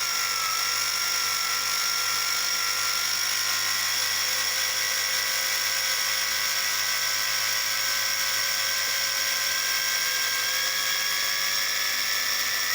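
Small electric slot-car motor whining steadily as it drives a tyre conditioner, its roller and the oiled slot-car tyre pressed together and dragging on each other, which loads the motor. The pitch creeps slowly upward.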